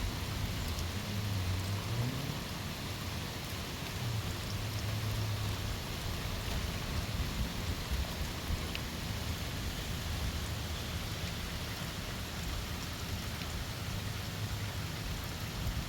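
Heavy rain driven by strong storm winds, a steady hiss, with a low hum underneath that glides up in pitch about two seconds in.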